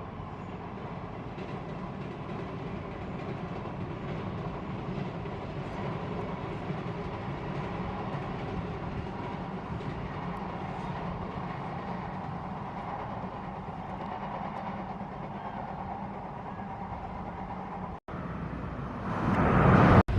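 Steady distant traffic rumble that swells through the middle and eases again. Near the end, wind buffets the microphone loudly.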